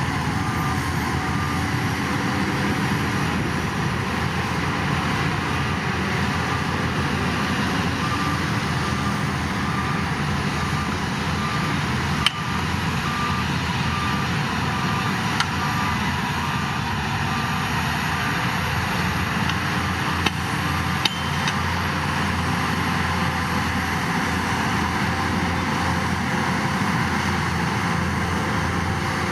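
Heavy construction machine's diesel engine running steadily, with a reversing alarm beeping in even repeats until about halfway through, and a few sharp knocks.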